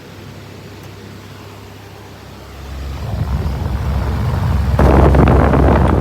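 Electric fan running with a steady low motor hum, then picking up speed from about two and a half seconds in, its rush of air growing much louder and stronger from about five seconds in.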